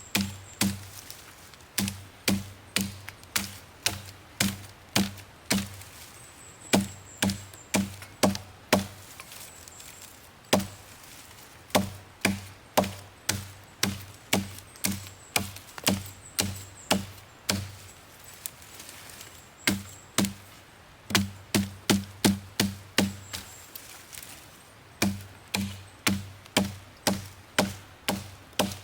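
Axe chopping wood: runs of sharp blows about two a second, with short pauses between runs.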